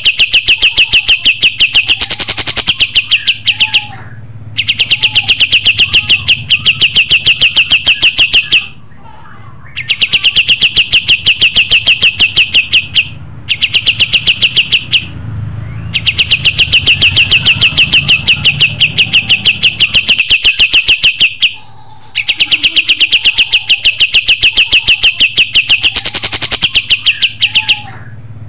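Kapas tembak songbird singing loud, very rapid trills, each held for several seconds and broken by short pauses, repeated over and over: a continuously singing ('gacor') bird recording of the kind played to train other songbirds.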